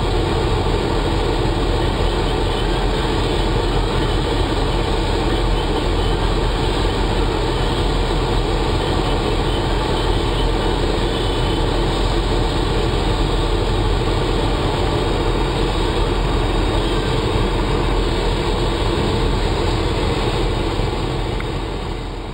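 A vehicle's engine idling steadily with a low rumble, heard from inside the vehicle; it fades out near the end.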